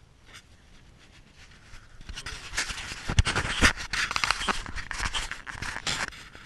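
A dog panting close by in quick, noisy breaths, starting about two seconds in.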